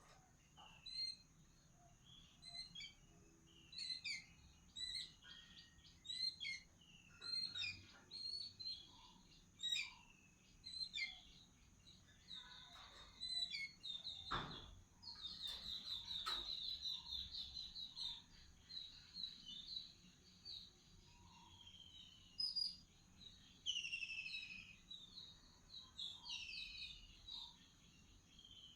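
Small birds chirping and calling with short, quick notes. A rapid trill comes about halfway through, and several falling whistled calls follow near the end.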